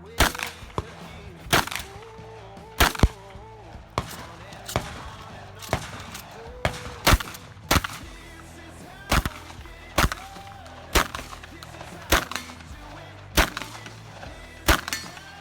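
A pump-action Remington 870 shotgun firing about fourteen shots in quick, uneven succession, roughly one a second, as on a competition stage run, over background music.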